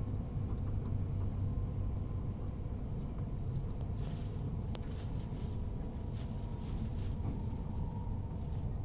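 Steady low rumble of a Queensland Tilt Train running at speed, heard from inside the carriage: wheels on the track with a faint steady hum over it. A single sharp click comes about five seconds in.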